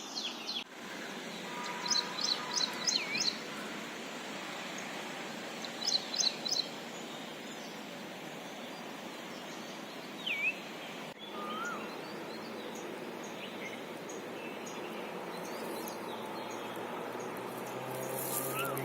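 Outdoor ambience: a steady background hiss with wild birds calling. Two quick runs of high chirps and a few single swooping whistled notes stand out, and faint music starts to come in near the end.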